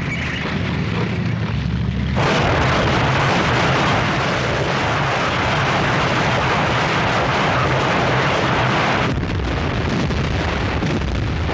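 Battle sound effects: a continuous low rumble, joined about two seconds in by a loud, dense roar that drops back about nine seconds in.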